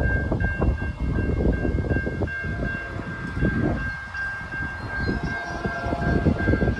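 NJ Transit train passing, its wheels clattering on the rails. Above it a high ringing tone sounds over and over, breaking off about twice a second.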